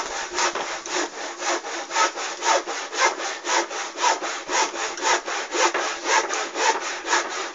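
Petrol burning inside a Suzuki TS250 two-stroke exhaust pipe, pulsing in a steady rhythm of about five rasping puffs a second as it burns off engine oil that leaked in through a failed crankcase seal.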